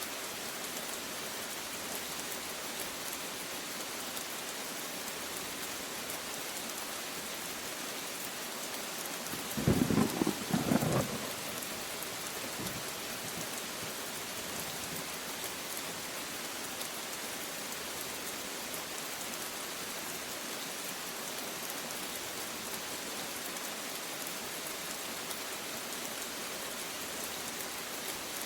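Steady rain hissing throughout, with a short low clap of thunder about ten seconds in that comes in two quick pulses.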